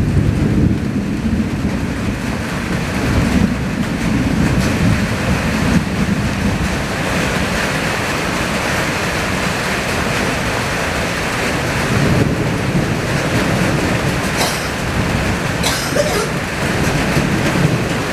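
Summer storm: strong wind gusting and rumbling, with rain, in a steady heavy roar. A few short sharp knocks come near the end.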